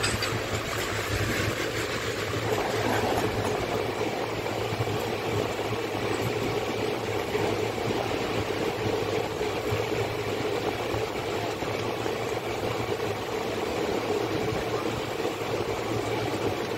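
Steady running noise of an Indian express passenger train at speed, heard from its coach doorway: an even rumble of wheels on rail with a low steady hum beneath.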